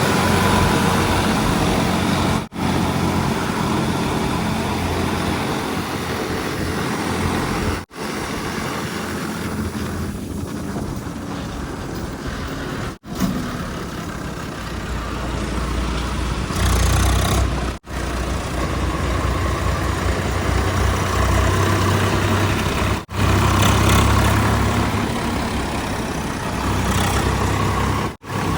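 Heavy diesel engines of earthmoving and haulage vehicles running, with a strong low rumble that rises and falls. The sound is broken by a brief dropout about every five seconds.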